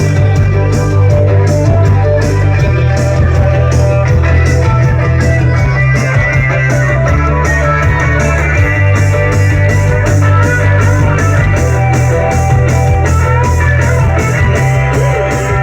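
Loud recorded music with guitar, played through a sonido sound system: heavy bass and a steady percussion beat of about three strokes a second.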